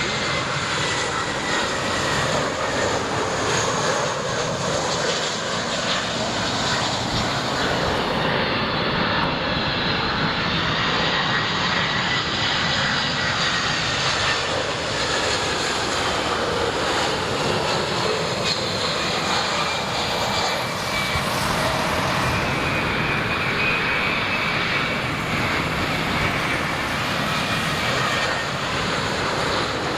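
Jet engines of a Brussels Airlines Airbus airliner running as it passes, a steady rush of engine noise with a high whine that drifts slowly in pitch.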